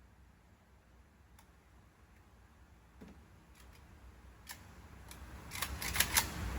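Faint sharp clicks: a few scattered ones, then several in quick succession about six seconds in, over a low hum.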